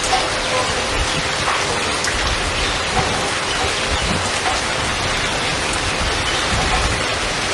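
Heavy waterfall: a steady, loud rush of falling water.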